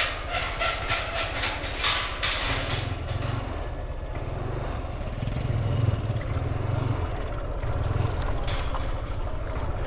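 Motorbike engine idling steadily, with a cluster of sharp clicks and rattles in the first three seconds.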